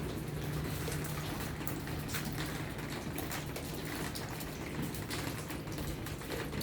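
Leaking water falling and splashing: a steady rain-like patter with scattered drips, over a low steady hum.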